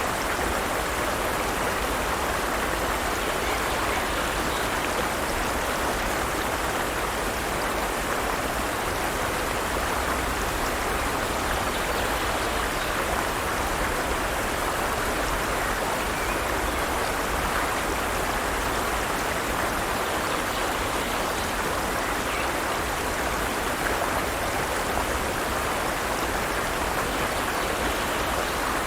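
Forest stream running steadily over rocks, a constant even rush of water.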